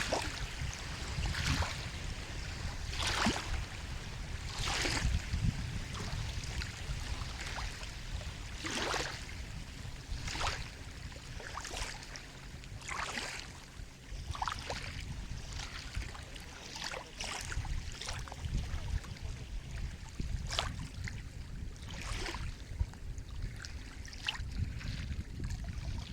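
Sea water lapping and splashing in short, irregular slaps, about one or two a second, over a steady low rumble.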